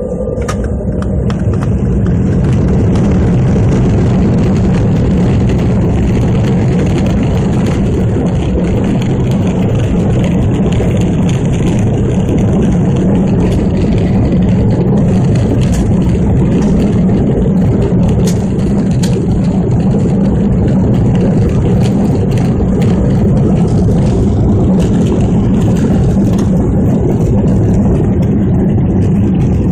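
Aircraft engines running at high power on departure, a loud, steady rumble with a low drone that builds over the first two seconds and then holds.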